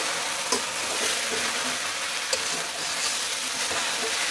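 Stir-fried noodles with vegetables and egg sizzling in a hot aluminium pan while they are tossed and stirred with a metal spoon, with a couple of light scrapes or taps of the spoon against the pan.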